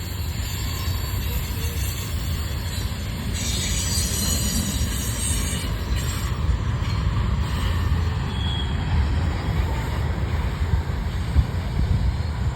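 Train rolling by with a steady, heavy low rumble, and faint high-pitched wheel squeal from about three to six seconds in.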